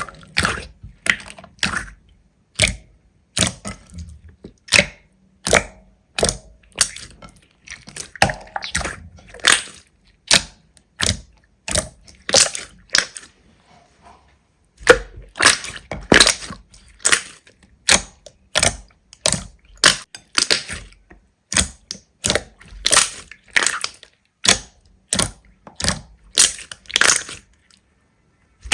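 Crunchy slime being squeezed and pressed, giving a run of short crunches about one or two a second, with a brief pause about halfway.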